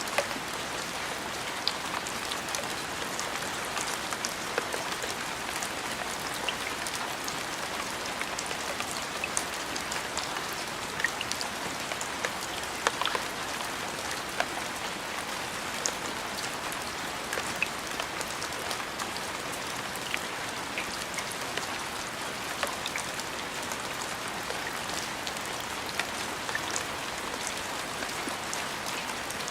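Steady rain falling, with many individual drops ticking sharply on a nearby surface.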